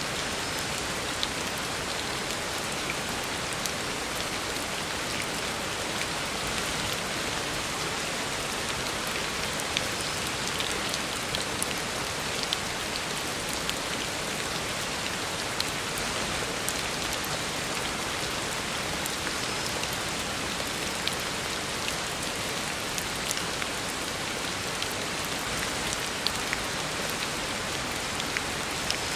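Heavy rain falling steadily on a road, a dense even hiss with scattered sharper drop impacts.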